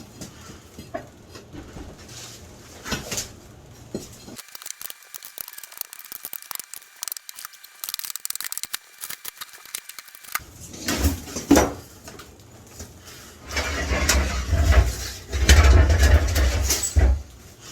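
Shovel scraping and knocking as sand and bits of brick are cleared off a concrete floor. The scraping gets heavy and loud in the last few seconds, after a stretch in the middle that is mostly a thin high tone.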